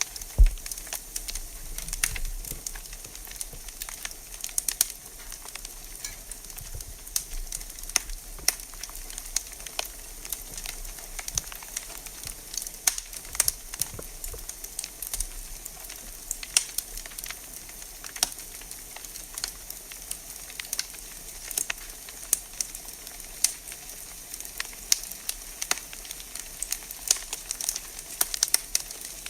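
Wood fire burning in a fireplace, crackling with irregular sharp pops over a steady hiss. The loudest pop comes about half a second in.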